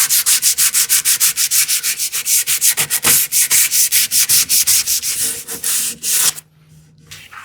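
Sandpaper rubbed by hand over a wooden drawer's edges in fast, even back-and-forth strokes, about seven a second, easing the corners. The strokes stop about six seconds in.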